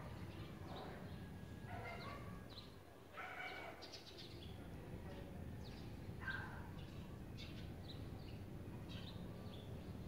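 Small birds chirping in short, high calls throughout, over a low steady background hum. A few louder, lower calls stand out about two, three and a half, and six seconds in.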